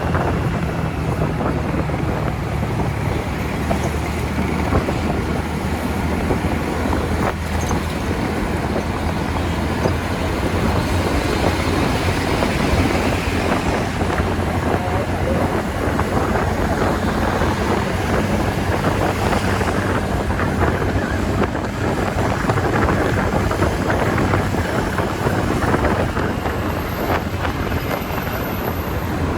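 Wind rushing over the microphone on a moving TVS Ntorq 125 scooter, with the steady drone of its single-cylinder engine underneath.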